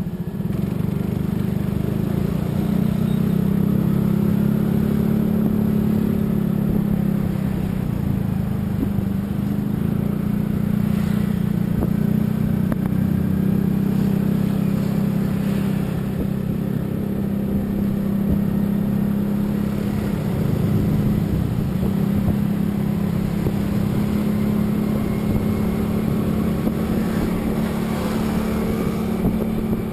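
Motor vehicle running at a steady speed: a continuous engine drone with road noise, swelling slightly now and then.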